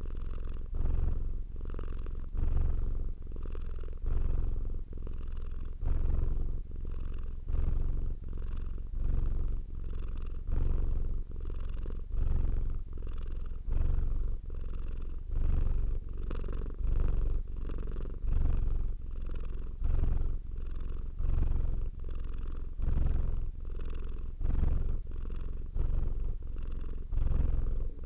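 Domestic cat purring close to the microphone, a low continuous rumble that swells and eases in a steady rhythm with each breath, about one cycle every second and a half.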